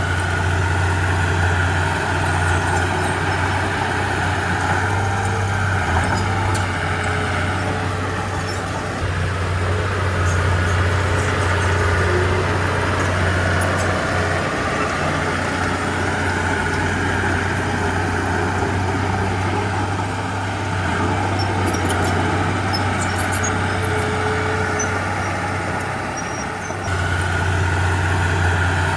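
Komatsu D31P bulldozer working, its diesel engine running with a steady low drone that eases slightly twice before picking up again, with faint clicking over the top.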